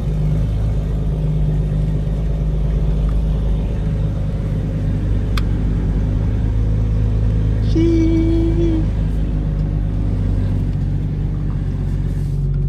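Car engine running steadily with a low, even drone. A short higher tone sounds briefly about eight seconds in.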